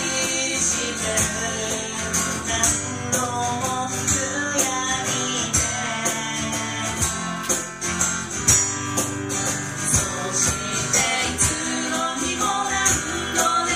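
Live acoustic pop music: an acoustic guitar strummed in a steady rhythm with a tambourine keeping time.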